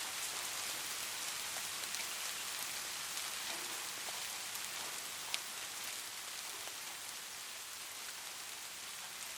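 Light rain falling steadily, a fine hiss of many small drop patters, with one sharper drip click about five seconds in.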